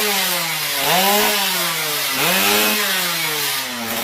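Drag-racing motorcycle engine being revved in repeated blips, its pitch climbing and dropping back about twice.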